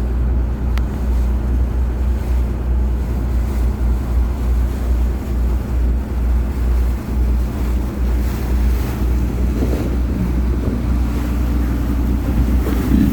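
Fishing boat's engine running with a steady low hum, under wind and water noise.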